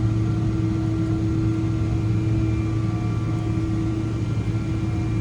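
Steady low mechanical drone of a vehicle interior, with a constant low hum and a few fixed higher tones over it, unchanging throughout.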